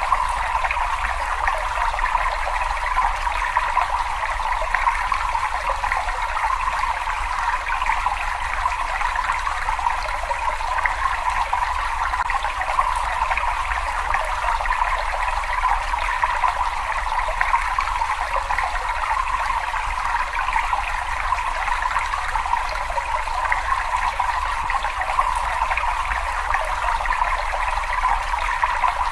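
Water trickling and running steadily in a cave, with a low rumble underneath.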